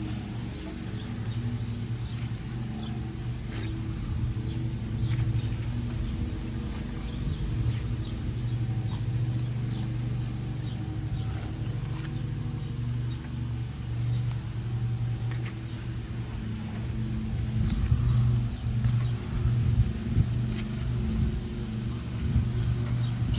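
Pressure washer running: a steady low hum, with a few louder irregular surges near the end.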